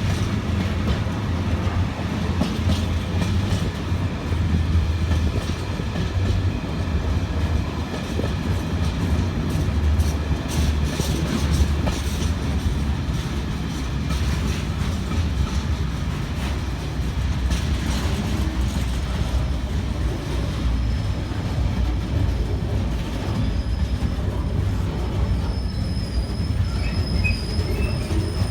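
Engineers' freight train passing: a steady rumble of wheels on the rails with clicks over the rail joints, and a thin, high wheel squeal coming in over the last few seconds.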